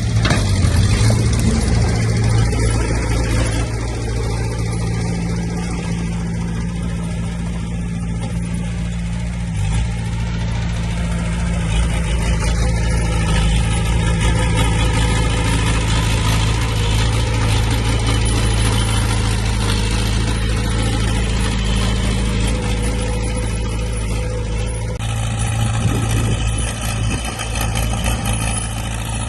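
Heavy earthmoving machinery's diesel engine running steadily at a low, even pitch, with a change in the sound about 25 seconds in.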